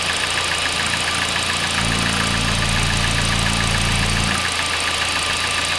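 Hyundai i40's 2.0-litre petrol engine idling with a fast, even ticking knock over its drone, and a deeper hum that swells for a couple of seconds midway. The owner hears the knock from the timing-chain end and suspects the timing chain or a cam phaser.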